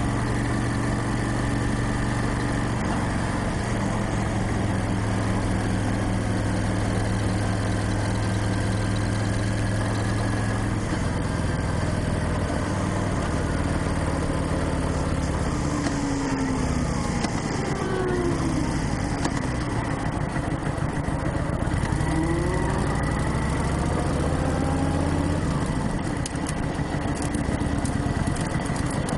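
Motorcycle engine running under way, a steady hum whose pitch steps up and down as the revs change, with rising and falling sweeps in the middle.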